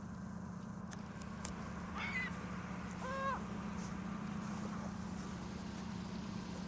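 Two short bird calls about a second apart, the second held briefly and then dropping, over a steady low hum.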